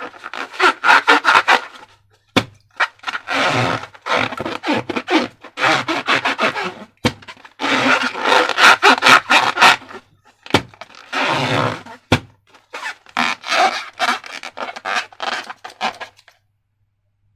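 Slime and balloon materials being worked by hand, making sticky crackling and scraping in bursts of a second or two with short pauses. Three sharp knocks come roughly every five seconds, and the sound stops about a second before the end.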